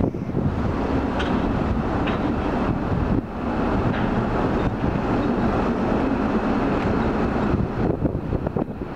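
Steady low rumble of the ferry under way, with wind buffeting the microphone in gusts near the start and the end.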